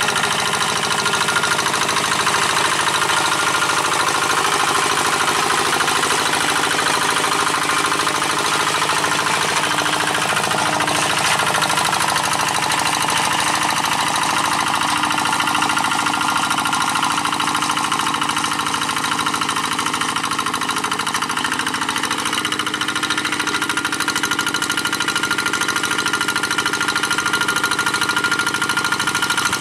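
G1000 two-wheel hand tractor's diesel engine running steadily with a fast knocking beat, pulling a moldboard plough through dry paddy soil.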